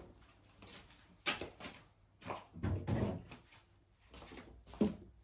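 A string of irregular knocks, clunks and scrapes from handling the lawn mower while its old fuel is emptied out, with the sharpest knock near the end.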